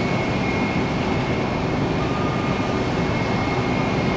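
Jet engines of a Southwest Boeing 737-700 airliner running at the airport: a steady rushing noise with a faint high whine.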